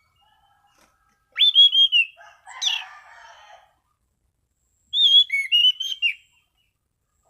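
Anis cendana thrush singing: two short phrases of clear, whistled notes, a couple of seconds apart, with a brief rougher, scratchy sound after the first phrase.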